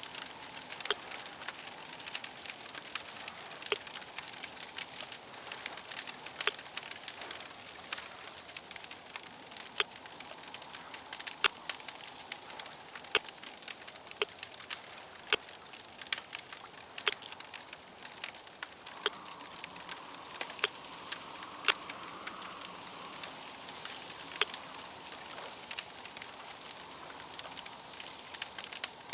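Fire crackling: a steady hiss with frequent irregular sharp pops and snaps.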